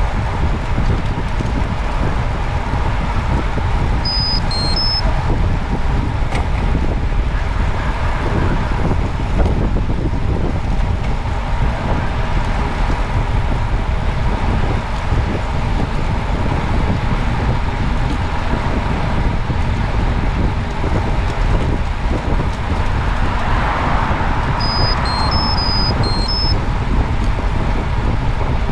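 Steady rumble of wind and road noise while moving along a road. Two brief runs of short, high chirps or beeps come about four seconds in and again near the end.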